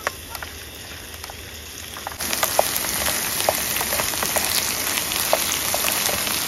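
Oil in a cooking pan sizzling and crackling as chopped onions fry, with scattered sharp pops. About two seconds in, the sizzle abruptly jumps much louder and denser.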